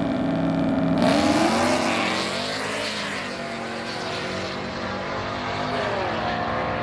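A drag-racing vehicle's engine accelerating hard down the strip. It gets loudest about a second in, and its pitch climbs and drops several times as it shifts through the gears.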